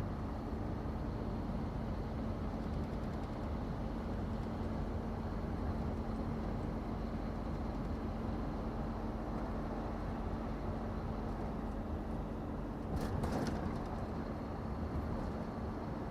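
Scania truck engine running steadily at cruise with road and wind noise inside the cab, a steady low hum over a rumbling hiss. About thirteen seconds in, a short burst of noise rises briefly above it.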